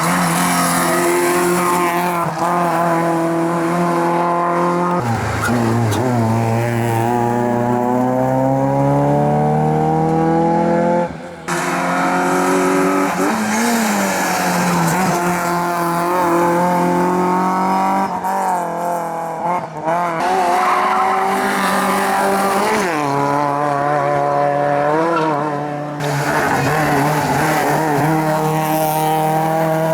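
Competition car engines at high revs, accelerating hard: the pitch climbs through each gear and drops at every shift. The engine sound changes abruptly a few times as one car gives way to another.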